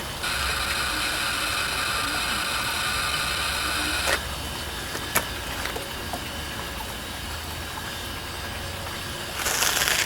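Hard drive inside a Macintosh Plus running with a steady whirring whine carrying several high-pitched tones: its bearings are worn out. A sharp click comes about five seconds in, and a louder hiss swells near the end.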